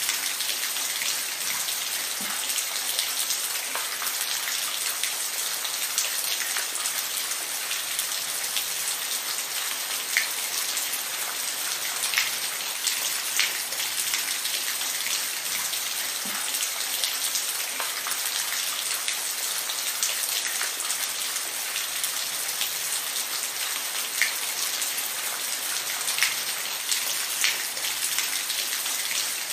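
Steady rain falling, a constant hiss with frequent sharp individual drop splats.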